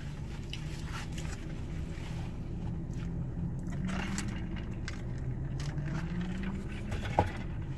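A man chewing a mouthful of crispy chicken sandwich, with faint scattered clicks of the chewing over a steady low hum.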